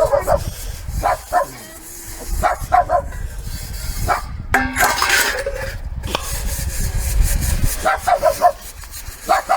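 A dog barking in quick groups of two to four short yaps, several times over, over a low rumble.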